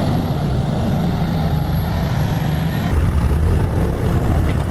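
Heavy vehicle's engine running steadily, with an abrupt change in the sound about three seconds in.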